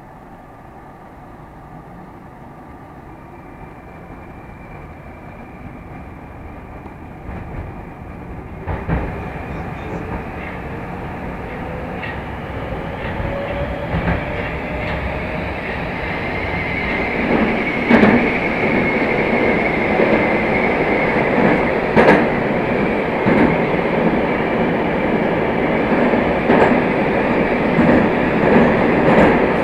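A Moscow Metro 'Moskva' train accelerating away from a station. The traction motors whine, rising in pitch, while the running noise grows steadily louder. From about halfway on the wheels knock sharply over rail joints.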